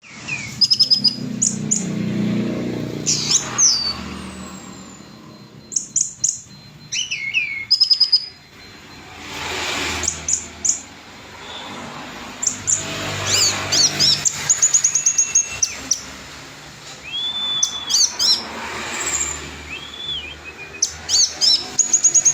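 Orange-headed thrush singing continuously, a string of varied whistled phrases, slurred notes and quick trilled chirps.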